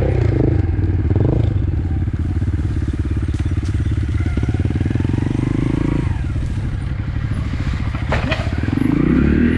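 Trail motorcycle engine pulling up a gravel hill climb. The revs hold steady, drop about six seconds in, and rise again near the end, with a sharp knock about eight seconds in.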